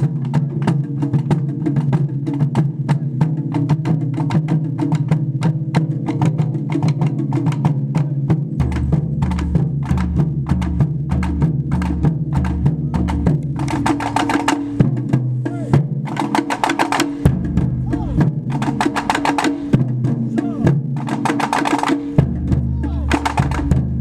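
Japanese taiko drum ensemble playing a fast, continuous rhythm of strikes. A deeper drum layer comes in about nine seconds in, drops out around two-thirds of the way through, and returns near the end.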